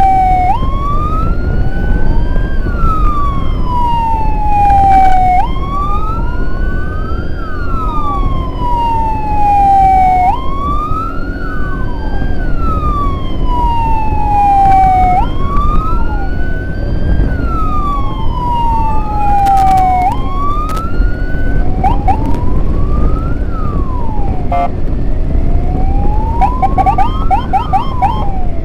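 Two emergency sirens wailing at once, each tone rising quickly and falling slowly about every five seconds; in the last seconds the sweeps turn quicker with a brief rapid warble, over steady road and wind noise.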